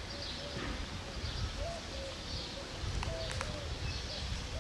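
A bird calling in short, repeated notes over a low background rumble, with two light knocks of a football being kicked about three seconds in.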